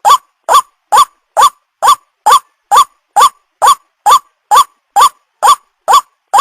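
White-breasted waterhen (ruak-ruak) lure call: a short croak that sweeps upward in pitch, repeated at an even pace about twice a second. The calls are identical, as in a looped recording played to attract the birds.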